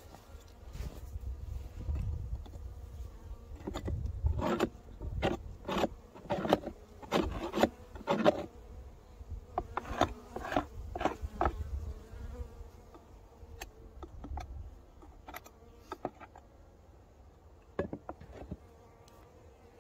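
Honeybees buzzing in a steady hum at the hives. A run of sharp scrapes and knocks between about four and twelve seconds in is the loudest sound.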